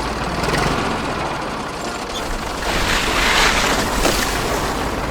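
Steady, dense mechanical running noise, like a small motor, growing a little louder past the middle.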